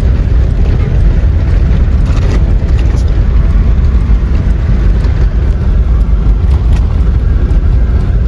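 Steady low rumble of road and wind noise from a moving Mahindra Xylo, loud throughout, with a few faint ticks.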